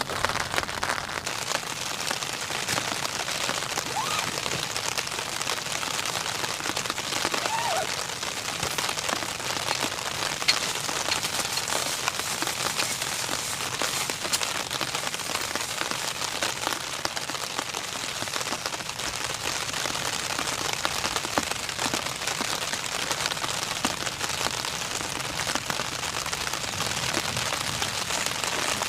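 Steady rain falling, a dense patter of many small drop impacts at an even level.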